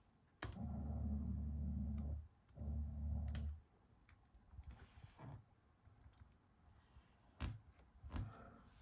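Scattered sharp clicks, like computer keys or a mouse being clicked. Two bursts of low hum, about a second or more each, come in the first few seconds.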